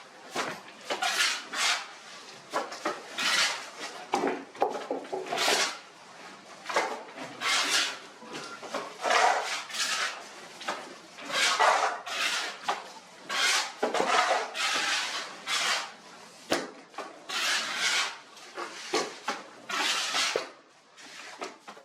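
Steel trowel scraping and rubbing wet cement plaster on a wall, in repeated irregular strokes about one or two a second.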